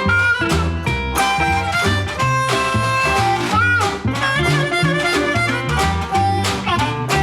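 Acoustic hokum blues band playing: harmonica carries the melody with bent notes over resonator guitar, a steady double-bass line and a scraped washboard rhythm.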